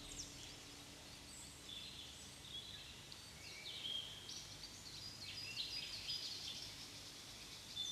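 Faint birdsong: several birds chirping in short high calls and quick slides in pitch, scattered throughout over a soft background hiss.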